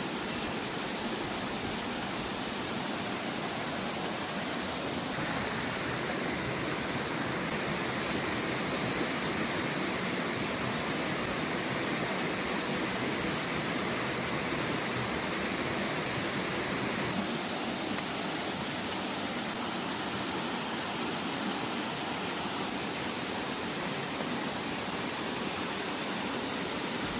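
Waterfall cascade: steady rushing water, an even hiss that grows a little brighter for a stretch in the middle.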